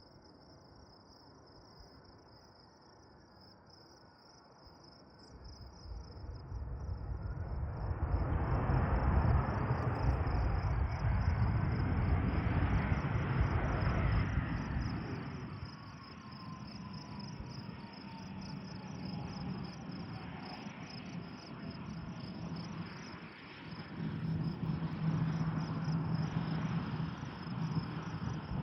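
Allegiant Airbus A320-214's CFM56 jet engines on a landing pass: a rumble swells, is loudest for several seconds with an engine tone gliding down in pitch as the jet goes by, eases off, then grows again with a low steady hum near the end. Crickets chirp steadily throughout.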